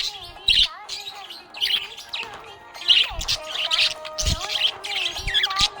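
Budgerigar chirping in repeated short bursts, over background music.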